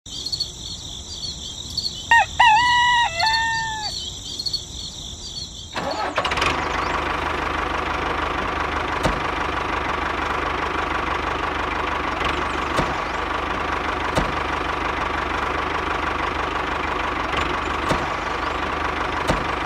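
A rooster crows once over a steady high hiss. About six seconds in, a small motor starts running steadily and keeps going, with a faint tick every couple of seconds.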